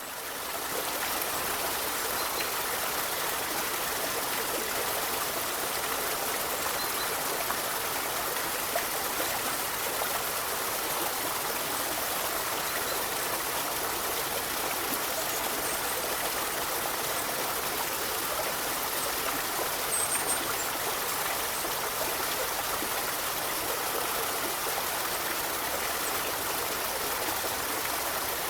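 Forest river flowing over stones: a steady rush of water with trickling and gurgling, faded in at the start.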